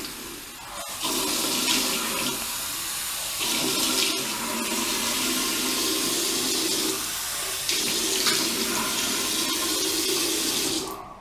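Tap water running into a sink and splashing as hands wet a face, the splashing changing as the hands move; the water is turned off suddenly near the end.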